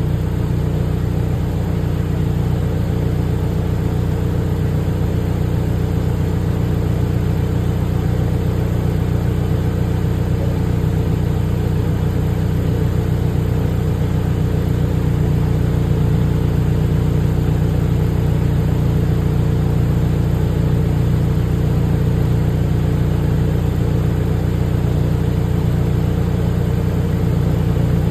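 Toyota Prado's 2.4-litre turbocharged four-cylinder petrol engine (T24A-FTS) running steadily at its exhaust, pitch unchanging and without revving, a little louder from about halfway.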